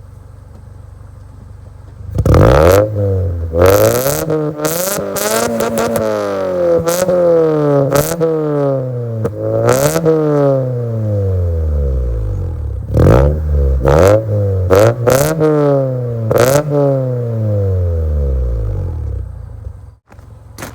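Straight-piped Honda Civic EX engine idling, then revved over and over from about two seconds in, the pitch climbing and falling with each rev, with sharp cracks from the open exhaust at many of the revs. It settles back to idle near the end.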